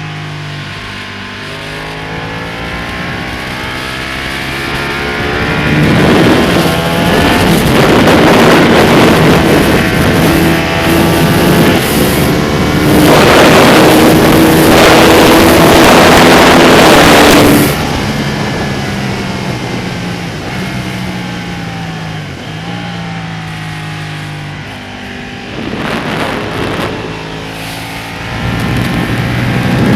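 Ducati Panigale's V-twin engine heard on board at speed, pulling hard up through the gears in stepped rising climbs with rushing wind noise. The throttle shuts off sharply about 18 seconds in, followed by lower engine running with downshift steps, then a fresh climb near the end.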